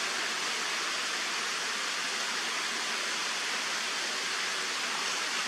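Steady rush of running water, such as a stream or small weir, with no other events.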